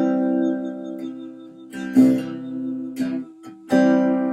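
Acoustic guitar strumming an accompaniment with no voice: a chord rings, another is strummed about two seconds in, and a third near the end.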